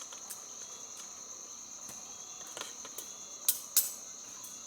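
Insects, crickets by the sound, trilling in a steady high-pitched drone, with a few sharp clicks or taps over it, the two loudest close together about three and a half seconds in.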